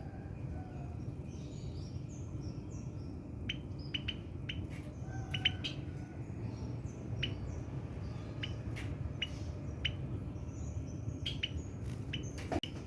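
Scattered faint, short bird chirps and small clicks over a steady low hum.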